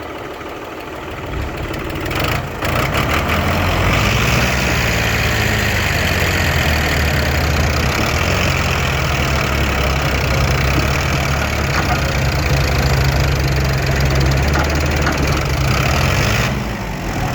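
Tractor diesel engine running. It revs up about three seconds in and then runs loud and steady under load.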